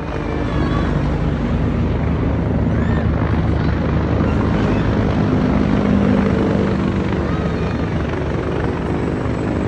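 Helicopter flying nearby, its rotor and turbine engine running in a loud, steady rumble.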